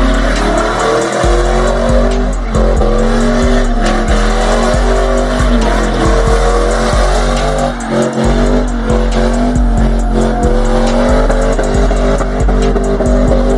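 Car doing a burnout: its engine held at high revs, with a slight climb in the first second, while the spinning tyres squeal.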